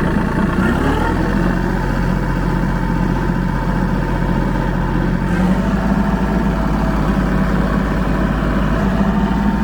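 Kubota L2501 compact tractor's three-cylinder diesel engine running with the PTO driving a rotary mower, being throttled up to the 540 rpm PTO speed: the engine note rises in the first second and shifts again about five seconds in.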